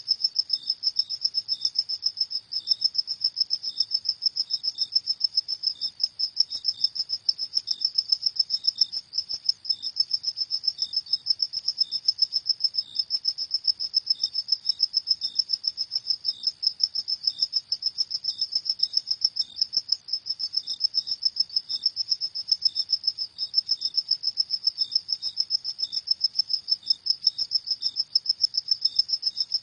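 Crickets chirping without pause: a high, rapidly pulsing trill, with a second, slightly lower chirp repeating about twice a second beneath it.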